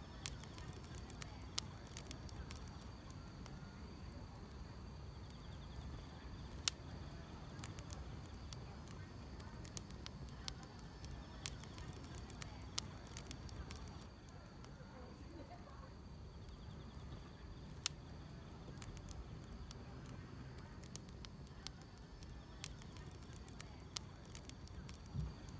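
Wood fire crackling, with irregular sharp pops over a low steady rumble, and a faint steady trill of grass insects high above it.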